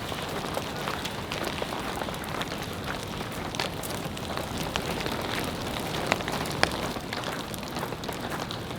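Steady winter rain falling, with many scattered sharp ticks of single drops striking a surface; two ticks stand out about six seconds in.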